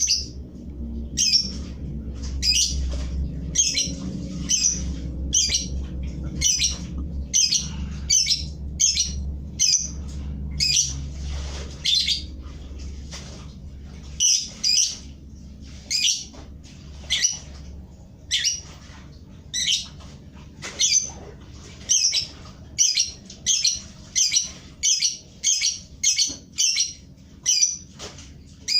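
Pet bird giving short, harsh repeated calls, roughly one a second and quickening toward the end, a call likened to a sewing machine. A low steady hum lies underneath for the first two-thirds.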